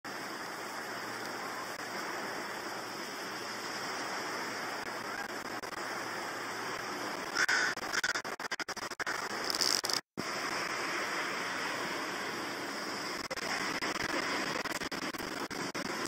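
Steady outdoor background hiss with a few short bird calls a little past halfway. The sound cuts out completely for a split second just after them.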